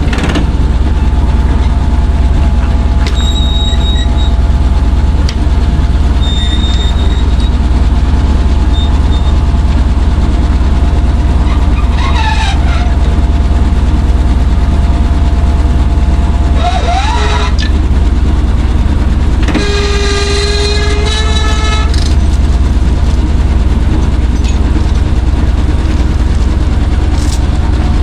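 Chevrolet C60 truck engine running steadily with a loud, deep rumble. Twice near the middle there is a brief gliding squeal, and about two-thirds through a short pitched horn-like tone sounds over it.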